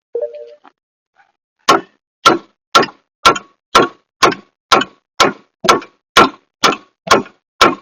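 Hammer striking metal in steady, even blows, about two a second, beginning a little under two seconds in after a short metallic clink: a part of the van's rear brakes being knocked free.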